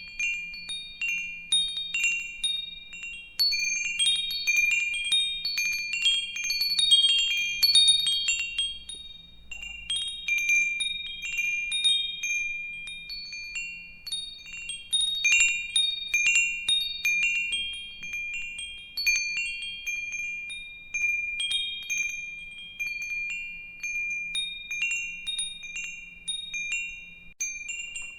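Metal wind chimes ringing, with clear high tones struck at random and overlapping as they ring out.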